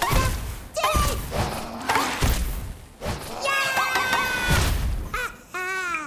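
Cartoon slapstick sound effects: a string of heavy thuds and crashes, about one a second, mixed with squeaky, high-pitched cartoon character cries and yelps.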